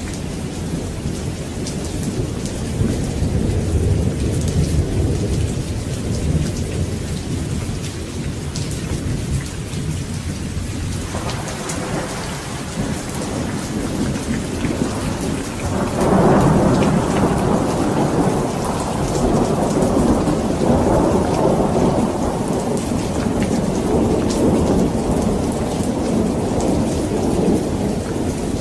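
Steady heavy rain with rolling thunder. A low rumble sounds early on, and a louder thunder roll breaks in suddenly about halfway through and rolls on to the end.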